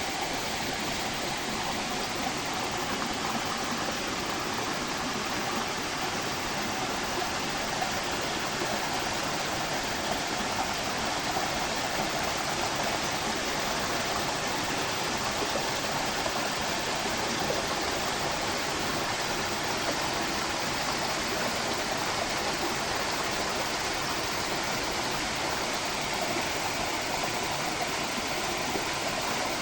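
Steady rush of a forest stream's flowing water, an even hiss with no birdsong standing out.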